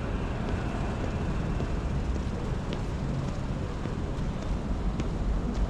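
City street ambience: a steady low rumble of traffic, with a few faint ticks.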